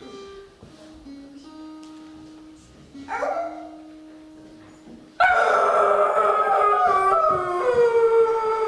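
Soft background music with held, plucked notes, then a dog howling: a short howl about three seconds in and a loud, long howl starting abruptly about five seconds in that slowly sinks in pitch.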